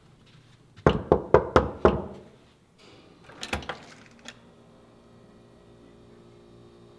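Five quick, loud knocks on a door, followed a second or so later by a softer clatter. A faint steady hum sets in from about three seconds in.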